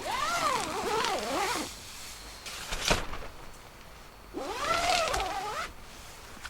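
An animal calling twice: two long cries that rise and fall in pitch, the second about three seconds after the first. A single sharp crack falls between them.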